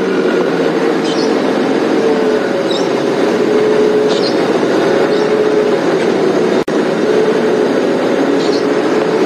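Game-drive vehicle's engine running as it drives, a steady drone, with short high bird calls about once a second over it. The sound drops out for an instant about two-thirds of the way through.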